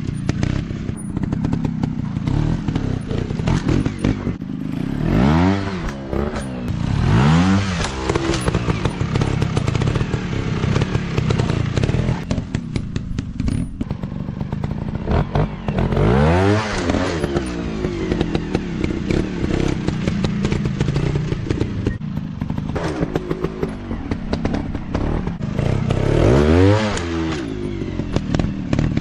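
Kawasaki KLX dirt bike engines running, revving up and back down four times, over a constant rattling clatter.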